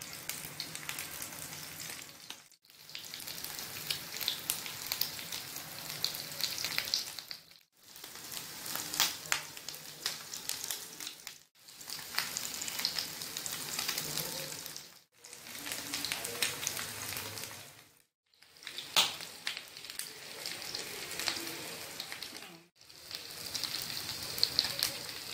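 Minced-beef kababs shallow-frying in hot oil in a flat pan: a steady sizzle with scattered sharp pops and crackles. The sound fades out and back in at about six short edit cuts.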